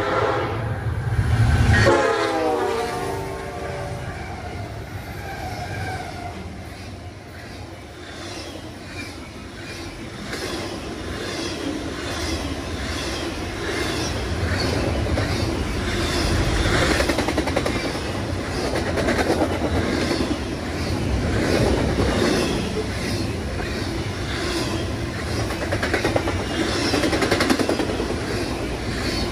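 Freight locomotive horn blowing as the train reaches the platform, its pitch dropping as it passes about two seconds in. Then a double-stack container freight train rolls by with a steady rumble and a rhythmic clickety-clack of wheels over the rail joints.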